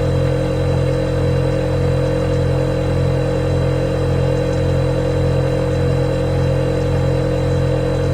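Refrigerator running, a steady low hum with a fainter higher steady tone above it.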